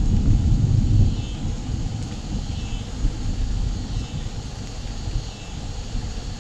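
Low rolling rumble of distant thunder, strongest in the first second or two and slowly fading, over the steady hiss of light rain.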